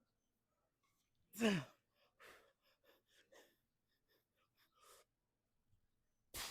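A man's loud sigh of exertion, falling in pitch, then a run of quiet panting breaths as he recovers from a set of chest exercise. Near the end comes a short, sharp noise.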